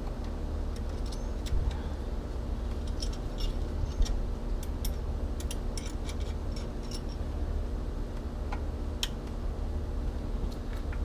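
Scattered light metallic clicks and clinks of hand tools working on an outboard motor's lower unit, over a steady low hum.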